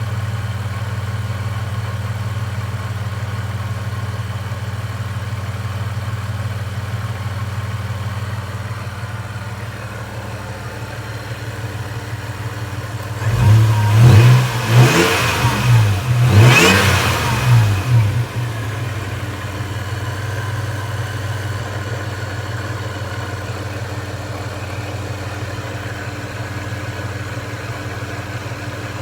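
Supercharged Toyota 3.4-litre V6 idling steadily during warm-up after a cold start. About halfway through the revs rise and fall a few times over several seconds, then settle back to idle.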